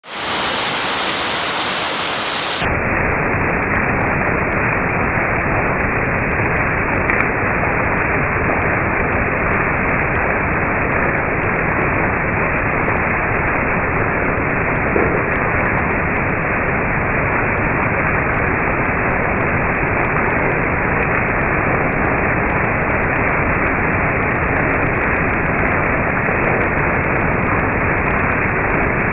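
Steady hiss of rainfall. After about two and a half seconds the sound turns duller, its highs cut away, as the phone's slow-motion playback begins.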